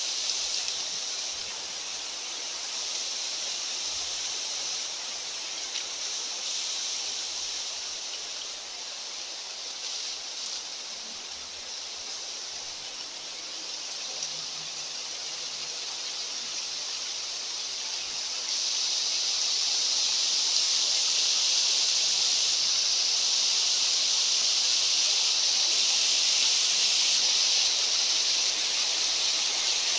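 Steady hiss of mountain wind, stepping up louder about two-thirds of the way in and holding there.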